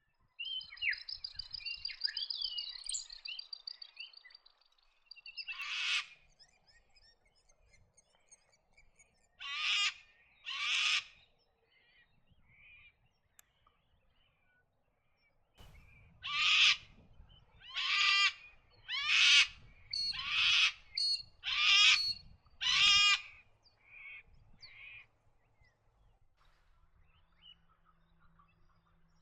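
Birds calling at a wetland: a high twittering at first, then a few separate calls, and later a run of seven loud harsh calls about one a second.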